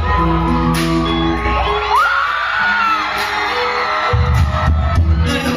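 Live rock band playing loudly, with electric guitars, bass and drums; sharp drum hits recur through the music.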